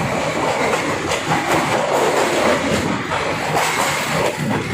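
Passenger train running along the track, its wheels clacking over the rail joints under a steady rush of running noise, heard from an open carriage window.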